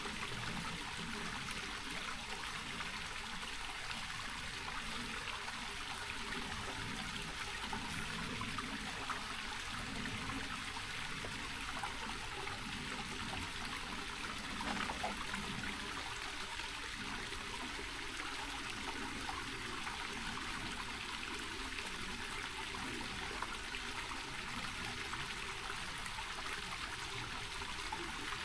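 Small rocky mountain creek running steadily, an even rush and trickle of water over stones.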